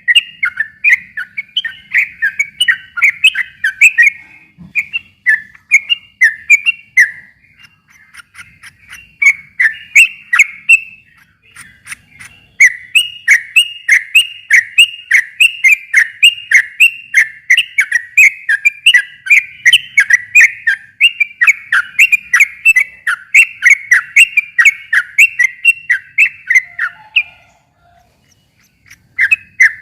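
Sooty-headed bulbul (trucukan) singing a long, fast run of chirping notes, about three a second, with a few brief breaks and a pause of about two seconds near the end. This is a lively 'gacor' song used as a lure call to set a silent bulbul singing back.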